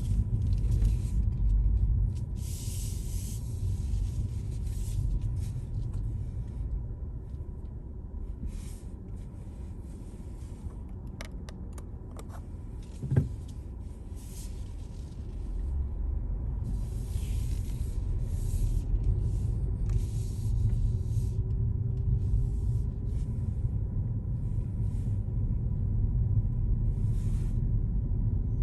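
A car driving on city streets: a low, steady road rumble that eases off for a while in the middle and picks up again, with brief hissing swells. One sharp knock comes about halfway through.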